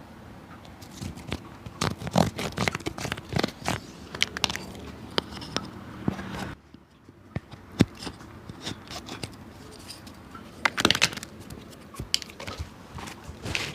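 Hand work on an old leather shoe: irregular scrapes, clicks and crackles, with a short break about halfway through.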